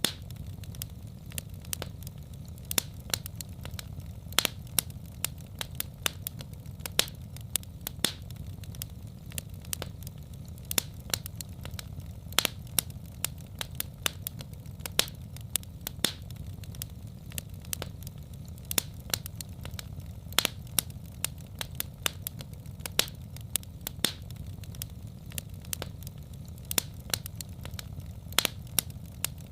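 Wood fire in a fireplace crackling, with many sharp, irregular pops and snaps over a steady low rumble of the burning.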